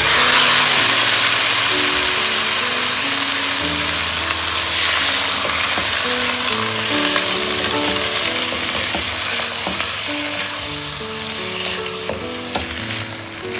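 Raw chicken pieces going into a hot pan of oil and sautéed onions, setting off a loud sizzle that starts suddenly and slowly dies down as the pan cools.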